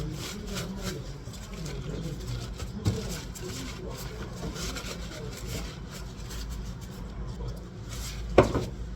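Kitchen-knife work on a wooden cutting board: steady rubbing and scraping, with a sharp knock about three seconds in and a louder one near the end.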